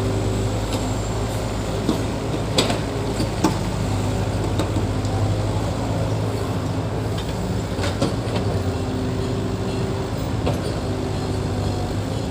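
Diesel engine of heavy earth-moving machinery running steadily, with a few sharp metallic clanks and knocks.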